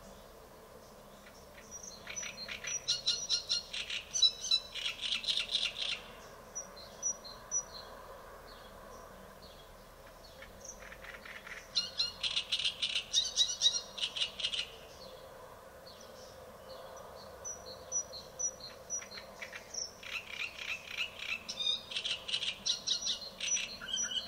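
A songbird singing: three long bursts of rapid, varied high notes and trills, each lasting three to four seconds, with pauses of several seconds between them.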